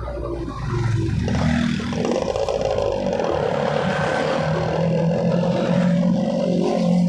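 Suzuki RC100 single-cylinder two-stroke motorcycle engine running under way; its revs climb about two seconds in, then hold fairly steady.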